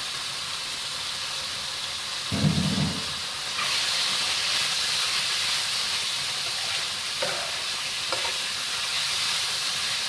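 Chicken, mushrooms and grated carrots sizzling in a hot wok while being stirred with a metal spatula. A brief dull bump comes about two seconds in, then the sizzle grows louder as the stirring gets going, with an occasional light tick of the spatula against the pan.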